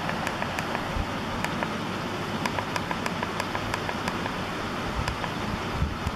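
Wind buffeting the microphone and tyre rumble of an electric bike riding along. A light tick repeats about three times a second through the first four seconds, then fades.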